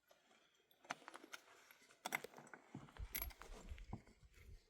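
Scattered light clicks and rattles, like small objects being handled, with a low rumble during the second half.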